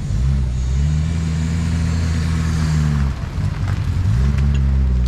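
Car engine revved and held at raised revs for about three seconds, then dropping back and revving up again near the end.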